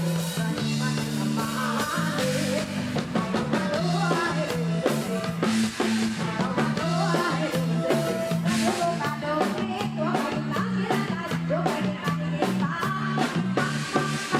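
Live Isan pop band music with a strong, repeating bass line, a drum kit and guitar, and a singer's voice in places.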